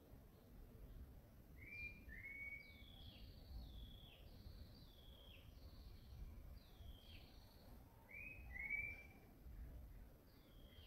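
Faint bird calls: short falling whistles repeated about every second and a half, with a pair of longer whistled notes twice, over a low background rumble.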